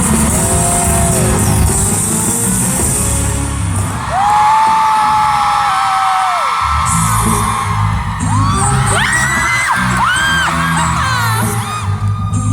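Live pop music with a heavy bass beat played loud over a concert PA, with audience voices rising and falling over it in short screams and cheers, most of them after about eight seconds.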